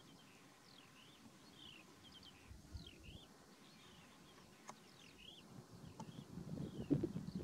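A small songbird chirping repeatedly, faint short notes that sweep quickly down and back up. Near the end, low rough sounds grow louder.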